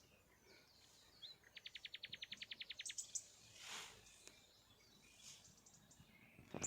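Faint wild birdsong: one bird gives a fast, even trill of about a second and a half, with a few short high chirps around it. Two soft rustles come later.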